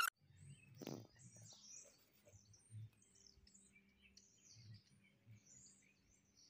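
Faint birds chirping, many short high calls scattered throughout, with a soft low knock about a second in.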